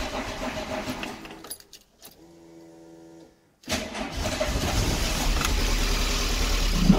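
1990 VW Golf GTI MK2 engine running, then dying out about a second and a half in; after about two seconds of quiet it is started again, catches, and keeps running. The owner takes the stalling for fuel starvation, the tank being low on petrol.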